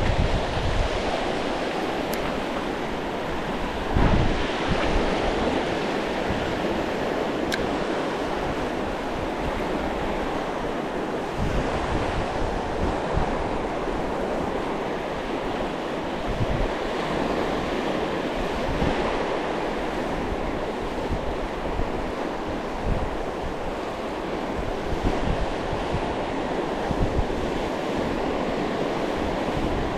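Sea waves washing onto the shore, with wind gusting on the microphone.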